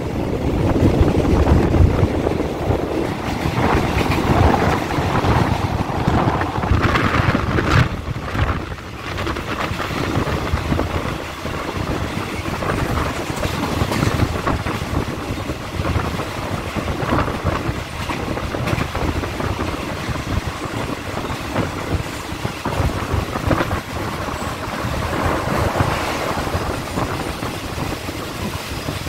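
Train running noise from an open doorway of a moving passenger train: wheels clattering over the rails with rushing wind. It is loudest for the first eight seconds or so while a freight train passes close on the next track, then settles into steadier running noise.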